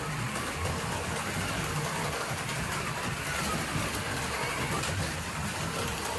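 HO slot cars running around the track: several small electric motors whining together over the buzz of pickup shoes on the rails, the whines rising and falling in pitch as the cars speed up and slow through the corners.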